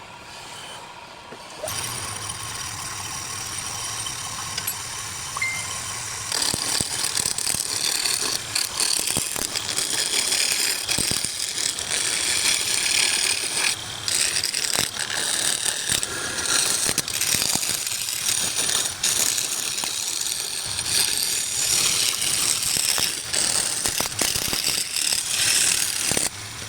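Wood lathe running, its motor hum starting about two seconds in. From about six seconds in a turning tool cuts the spinning wood: a loud, rough, high-pitched scraping full of rapid clicks and rattles.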